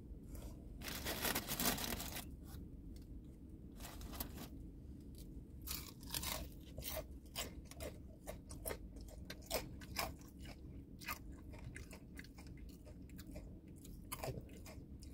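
Close-up chewing of crispy fried chicken and fries: irregular wet crunches and bites all through, over a steady low hum.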